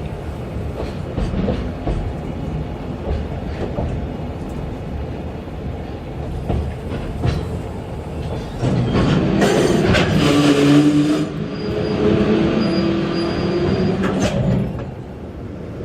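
Freight train running past, its wheels clacking over rail joints. About nine seconds in the sound grows louder, with a steady hum of several tones, and it eases off again near the end.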